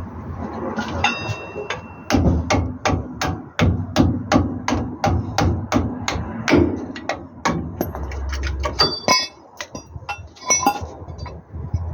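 Hammer blows on metal during truck brake lining work: a quick series of sharp strikes, about three to four a second for several seconds, with a few ringing metallic clinks before and after.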